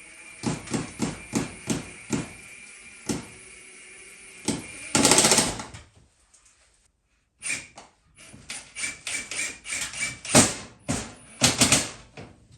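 A run of sharp knocks, two or three a second, like hammer taps on wood. A louder scraping rush comes about five seconds in, then a short pause, then a faster run of knocks.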